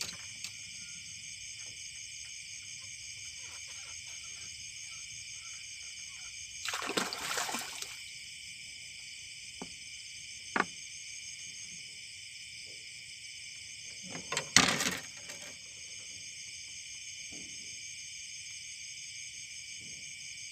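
Steady high-pitched insect chorus, with two short water splashes, about seven seconds in and again about fourteen seconds in.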